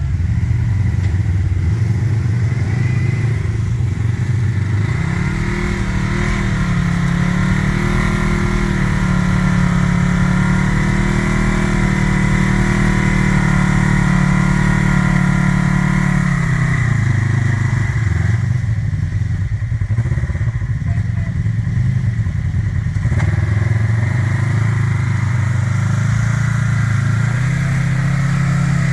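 Side-by-side UTV engine running hard: the revs climb, hold high and steady for about ten seconds, then fall away about halfway through and surge up and down again toward the end.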